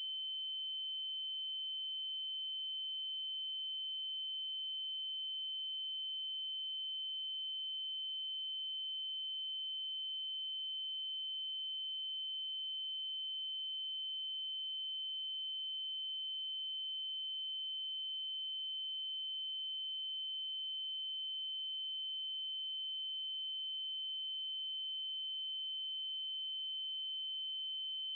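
Steady synthesized 3072 Hz triangle-wave tone, a single unchanging high pitch with faint overtones above it. Faint ticks come about every five seconds.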